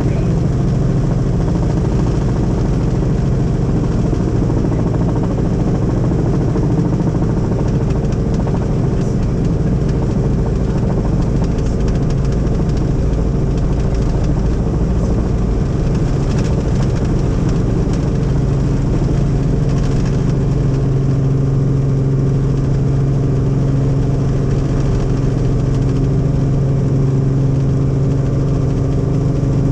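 Helicopter in flight: a steady, loud run of engine and rotor noise with a constant low hum, which grows stronger about seventeen seconds in.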